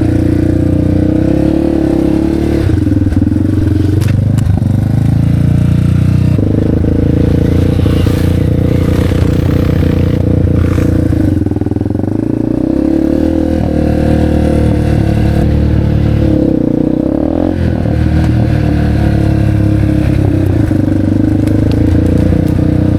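Motorcycle engine running loud and close. Its pitch drops and climbs back again several times as the throttle is closed and opened.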